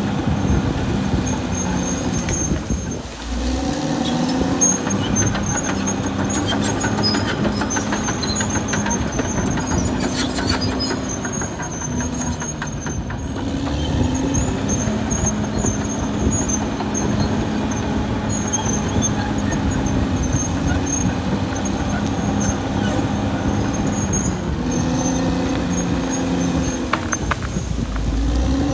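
Caterpillar D6R XL crawler bulldozer at work: its diesel engine runs under load, dipping in pitch and picking back up a few times, while the steel tracks squeal and clank.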